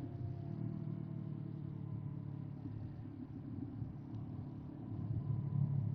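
Motorcycle engine running steadily under way, a low rumble that gets a little louder near the end.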